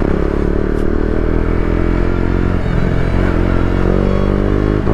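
Motorcycle engine running at a steady speed, its pitch holding nearly level and drifting slightly lower; it cuts in suddenly at the start.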